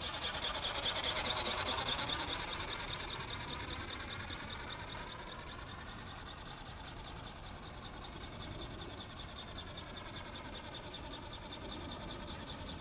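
Home-built flapping-wing model bird (ornithopter) in flight: its small geared electric motor buzzes steadily while the wings flap. It grows louder about a second and a half in, then eases off.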